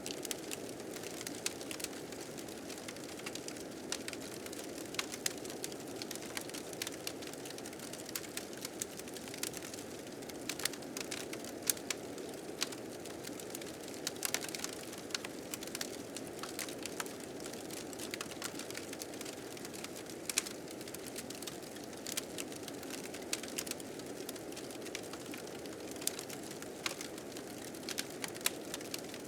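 Blizzard wind rushing steadily, with a fire crackling over it in frequent small, irregular pops.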